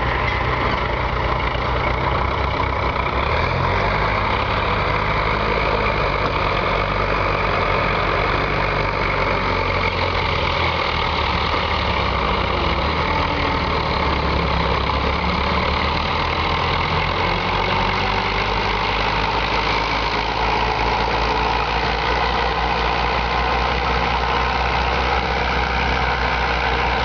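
Diesel engine of a Romanian U-650 tractor running steadily.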